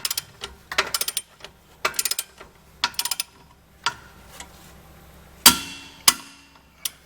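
Ratcheting torque wrench with a 30 mm socket tightening a rear wheel hub nut to 175 N·m: four short bursts of rapid ratchet clicks about a second apart, then a few single sharp metallic clicks, the loudest one ringing about five and a half seconds in.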